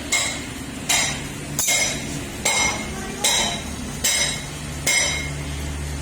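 Hammer striking metal seven times at an even pace, each blow leaving a short metallic ring: valve seat inserts being driven into an Al Ghazi tractor's cylinder head. A steady low hum comes in over the second half.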